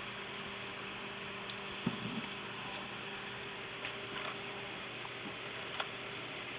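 A few faint, scattered clicks and taps of small items being handled, over a steady low hum.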